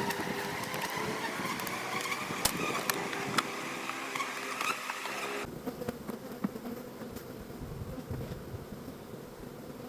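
Honey bees buzzing around an open hive, a steady hum, with a few sharp clicks. About five and a half seconds in, the sound turns abruptly thinner and quieter.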